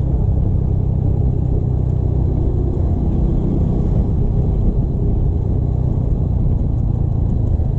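Motorcycle running steadily on the road, a continuous low rumble of engine and road noise with no change in speed.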